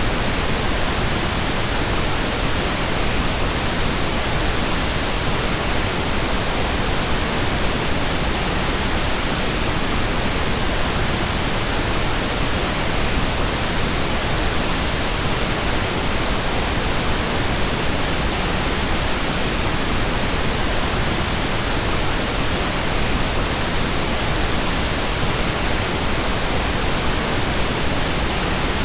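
Steady pink noise, an even hiss spread across the whole range of pitch, with no change in level.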